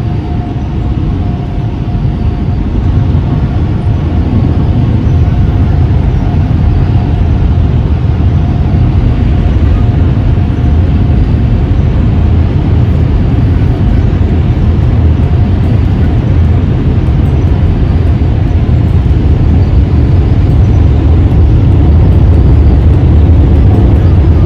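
Automatic car wash air-dryer blowers running, heard from inside the car: a loud, steady rush of air that grows a little louder as the car moves through.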